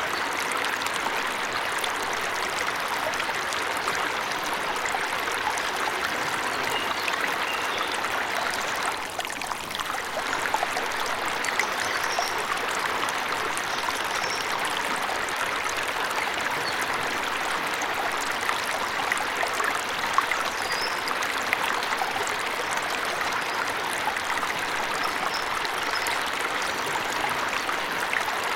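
Steady rushing and splashing of a forest waterfall, with a few faint, brief bird chirps now and then above it. The water sound dips briefly about nine seconds in.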